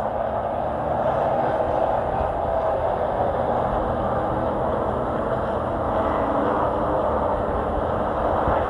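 Race truck's engine running hard at a steady pitch under racing speed, heard from on board.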